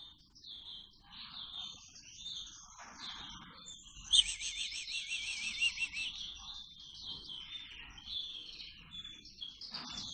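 Nestling birds' high, thin begging chirps, repeated over and over while being hand-fed. About four seconds in, a louder, wavering trill starts sharply and runs for about two seconds.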